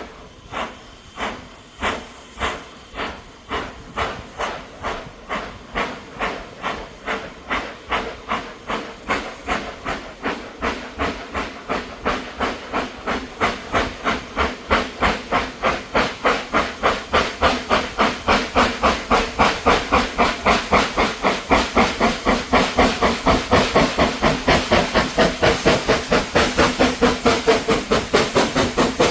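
Steam locomotive exhaust chuffing as it works a train away, the beats speeding up from about one and a half to four or five a second and growing steadily louder.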